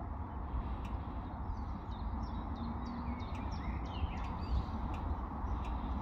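Small birds chirping in short notes for a couple of seconds in the middle, over a steady low rumble.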